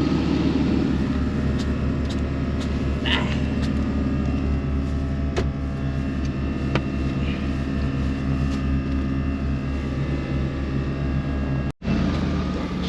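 Car engines idling at a steady low hum, with a few light clicks and a brief dropout near the end.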